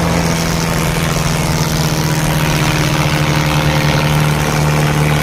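Diesel tractor engine running loud and steady at a constant pitch.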